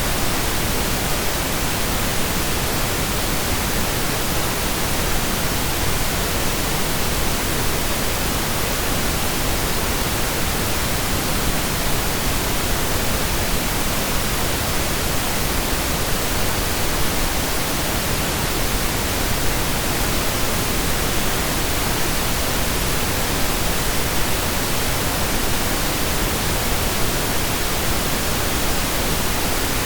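Steady synthesized pink noise: an even, unchanging hiss with equal energy per octave, like steady rain or a waterfall heard from indoors.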